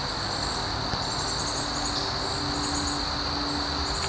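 Steady high-pitched insect chorus with repeated short trains of rapid chirps above it, over a low steady rumble.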